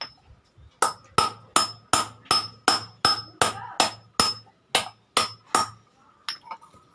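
Hand hammer striking iron in a steady run of about thirteen blows, roughly two and a half a second, each with a short metallic ring, followed by two lighter taps near the end.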